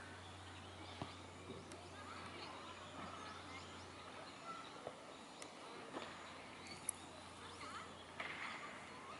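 Faint park ambience: small birds chirping on and off in short, scattered calls, with a few light clicks, the sharpest about seven seconds in.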